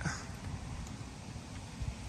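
Wind rumbling on the microphone, uneven and low, over a faint steady hiss of rain.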